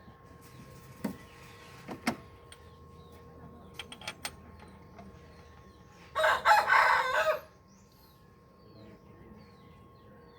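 A rooster crowing once, loud and about a second long, a little past the middle. Before it come a few sharp clicks.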